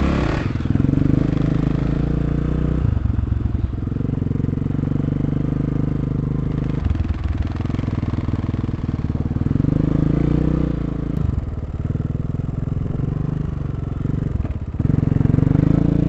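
A 250 cc dirt bike engine running under way, its note stepping up and down every few seconds with short dips between steps as the throttle and gears change.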